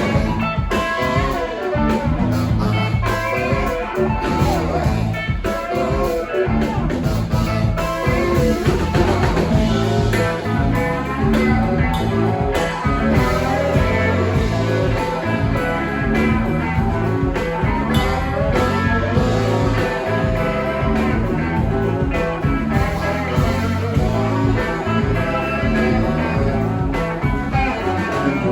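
Live rock band playing a blues-tinged number, with electric guitar to the fore over bass and drums.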